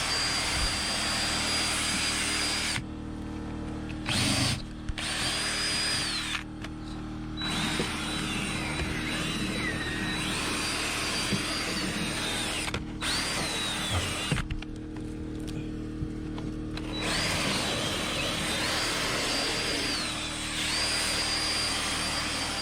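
Cordless drill spinning a drill brush against car carpet and upholstery: a high motor whine that dips and rises with trigger speed over the scratchy scrub of the bristles. It stops and restarts abruptly several times.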